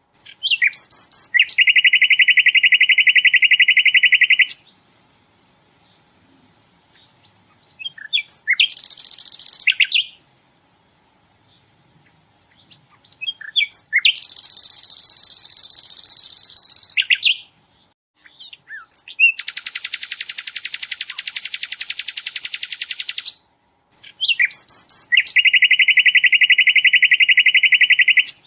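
Sikatan londo singing: long, very rapid trills lasting a few seconds each, some lower-pitched and some higher, separated by short chips and brief pauses.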